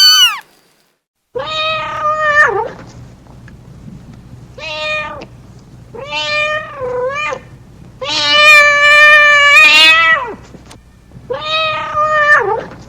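Domestic cat meowing repeatedly. A high meow ends just after the start. After a brief silence comes a string of lower meows over a faint steady hum, the one about eight seconds in long and drawn out.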